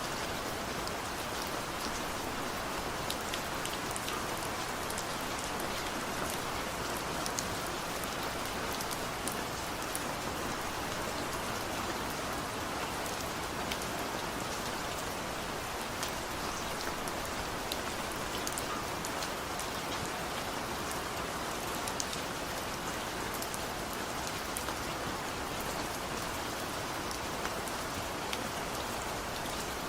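Steady rain falling, a constant hiss with many separate drops ticking sharply through it.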